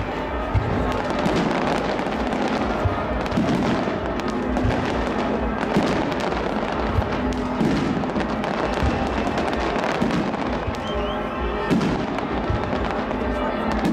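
Aerial fireworks bursting: a dense, continuous crackling with frequent sharp pops, with music playing underneath.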